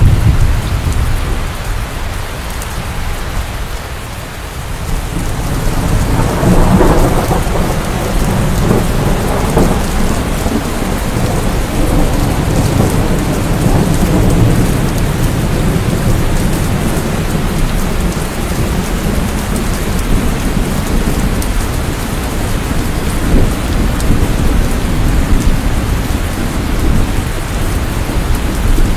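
Steady rain with a long rolling rumble of thunder that builds about six seconds in and slowly dies away.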